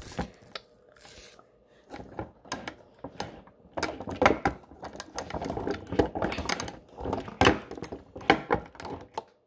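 Irregular clicks, taps and clatter of hands handling objects close to the microphone, with a brief lull about a second in and busier clattering from about four seconds on.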